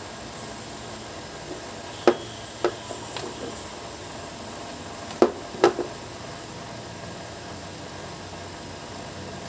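Two pairs of sharp knocks or clicks, each pair about half a second apart, over a steady hiss.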